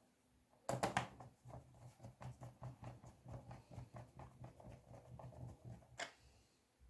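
Screwdriver driving a screw into a laptop's plastic bottom case: a fast run of small ticking clicks for about five seconds, then one sharper click.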